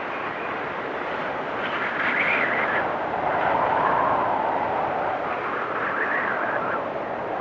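Blizzard wind blowing steadily in gusts, with a howl that swells and shifts in pitch about two seconds in, peaks around four seconds, and rises again about six seconds in.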